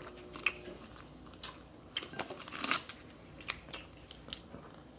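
Eating a seafood boil close to the microphone: scattered short clicks and crunches, with chewing.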